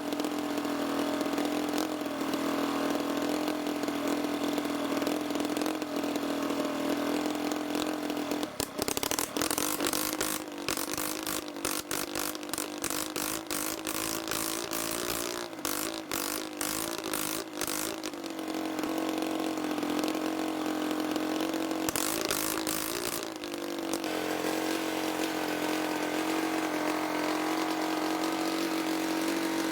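Diesel-converted motorcycle engine running with a steady hum. Through the middle stretch it goes rough and clattery, then it settles back to an even run near the end.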